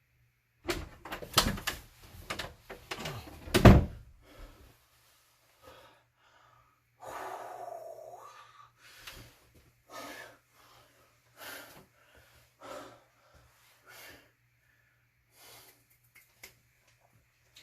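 A quick cluster of loud knocks and bangs in the first few seconds, the loudest about three and a half seconds in, followed by short separate sounds roughly once a second.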